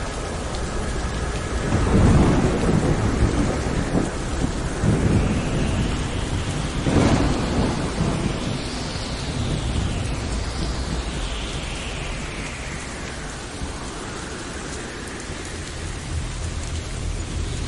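Thunderstorm recording: steady heavy rain with rolls of thunder. The loudest rumble comes about two seconds in, a sharper crack about seven seconds in rolls away, and another crack comes at the very end.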